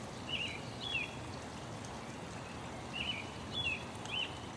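Small songbird chirping: five short, quick twittering calls, mostly in pairs, over a steady soft background hiss.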